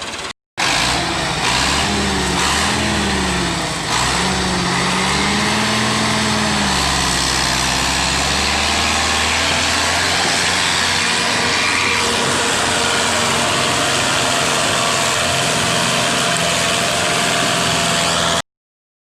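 Fiat 640 tractor's four-cylinder diesel engine working under load, pulling a loaded sugarcane trolley; its pitch rises and falls a few times early on, then it runs steadily until it cuts off suddenly near the end.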